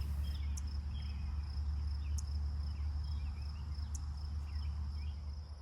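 Crickets trilling steadily, a continuous high-pitched note, with faint scattered chirps and a few light ticks. A steady low rumble runs beneath them.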